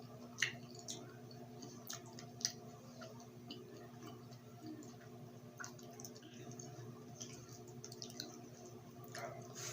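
Close-up eating sounds: scattered soft mouth clicks and wet squishes of someone chewing grilled street food, over a steady low hum.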